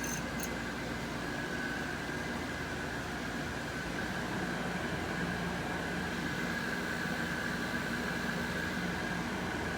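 Window air conditioner running steadily: a rush of fan air with a low hum and a thin, steady high tone.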